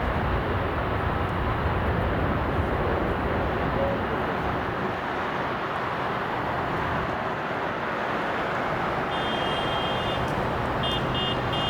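Steady roar of jet airliner engines, with no distinct pitch and no pauses. Near the end, an intermittent high electronic beeping starts and stops several times.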